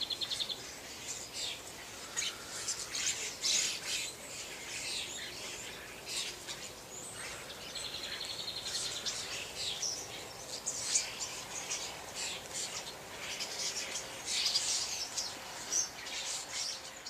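Small birds chirping and singing in short high notes, with a fast trill about eight seconds in.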